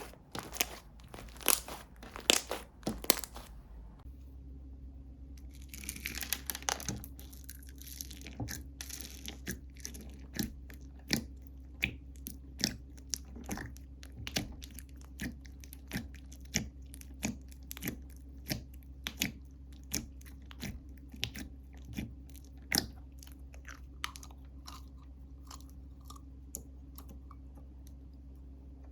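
Slime being pressed, poked and squeezed by hand, making a run of sharp crackling clicks and pops. The loudest cracks come in the first three seconds; after that the clicks settle into an even rhythm of roughly one every 0.7 s, with a faint steady hum beneath.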